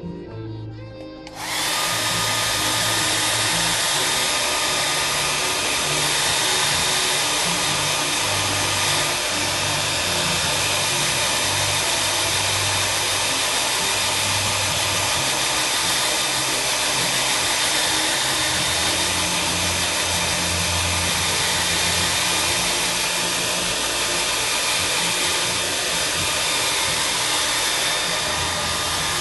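An electric motor-driven tool, a blower or a shop machine, switches on about a second in and runs steadily with an airy rush and a faint whine, over background music.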